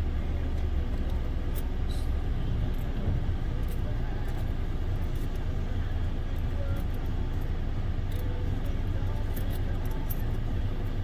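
Steady low rumble inside a car's cabin with the engine running, with faint scattered ticks.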